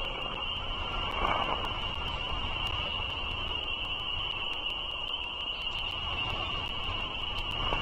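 Outdoor ambience from a nest-cam microphone: an even low rumble under a continuous high-pitched drone or chorus, with frequent faint ticks.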